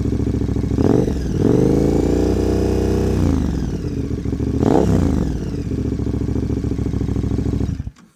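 KTM 1290 Super Adventure S V-twin engine running through its stock exhaust with the dB killer and last baffle removed, giving a louder, more open note. It is blipped sharply about a second in and again near five seconds, with a longer held rev in between.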